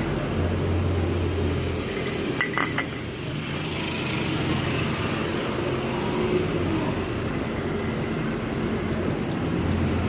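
Steady noise of passing motorcycles and road traffic, with a low engine hum at the start and near the end. About two and a half seconds in, a quick run of a few clinks of tableware.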